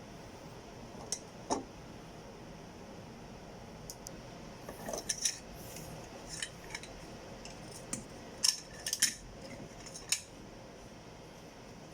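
Scattered sharp metallic clicks and clinks of hand tools, a socket wrench working on the cylinder head bolts of a Toyota 1NZ-FE engine as they are tightened in sequence. The clicks come irregularly, bunched about five seconds in and again near the end.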